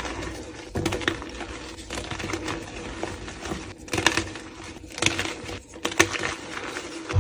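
Blocks of gym chalk being crushed and crumbled: an uneven run of dry crunches and crackles, with a few louder crunches along the way.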